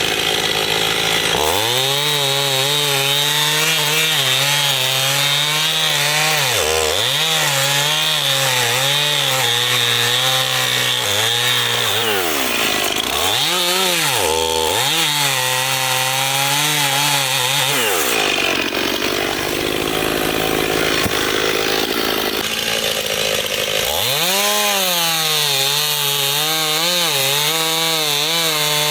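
Two-stroke chainsaw cutting firewood under load, its engine note dipping sharply several times as the chain bogs in the cut. The note changes for about six seconds in the middle before the saw settles back into cutting.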